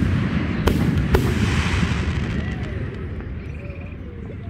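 Fireworks going off: two sharp bangs about a second in, half a second apart, with a low rumble lingering and fading after them, then another loud bang right at the end.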